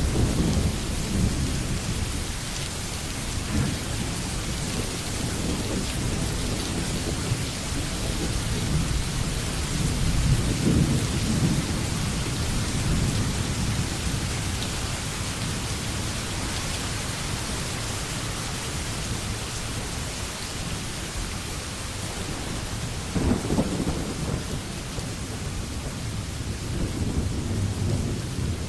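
Steady heavy rain, with low rolling rumbles of thunder swelling up several times: near the start, around the middle and twice toward the end.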